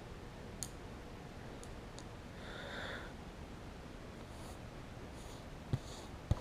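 Faint clicks and a short soft rustle over quiet room tone: hands pressing a vinyl sticker onto a dirt bike's plastic fender.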